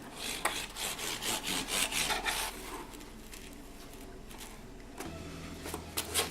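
Handling sounds of gluing salt-dough sheets into a cardboard form: a quick run of soft taps and rustles over the first couple of seconds, then quieter. A low steady hum comes in near the end.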